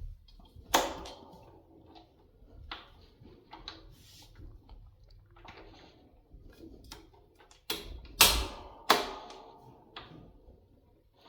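Sharp metallic clicks and clunks, loudest in a cluster of three near the end, with a faint low hum underneath; most likely the controls and body of an all-metal 1960s KDK fan being handled.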